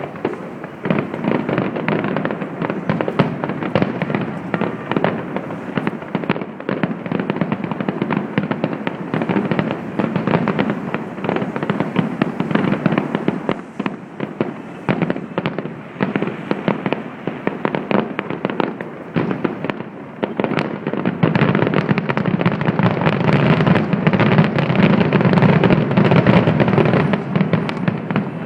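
Fireworks display going off in a dense, continuous barrage of bangs and crackles, many bursts a second. It grows louder about three quarters of the way through.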